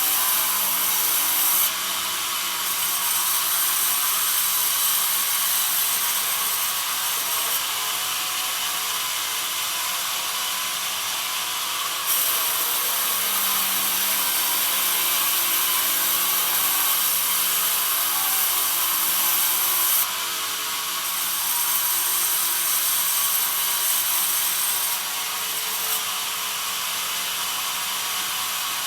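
Bandsaw mill sawing pine: a steady, loud hissing whine from the blade in the wood, whose level steps down and back up a few times.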